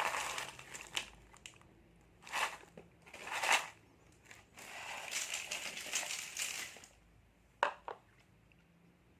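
Plastic seblak snack packets crinkling and rustling in several separate bursts as they are handled and opened, one longer stretch of crinkling in the middle.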